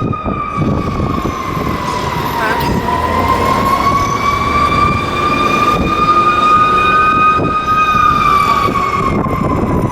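Fire apparatus siren wailing over a heavy engine and traffic rumble. It slowly falls in pitch, climbs back up for several seconds, then falls again near the end.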